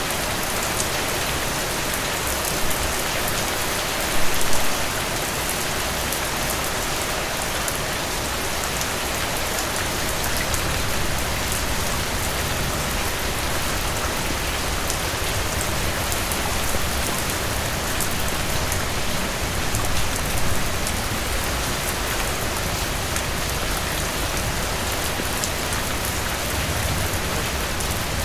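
Heavy rain falling steadily, a dense even hiss of drops on surfaces, with a few brief louder splashes about four seconds in.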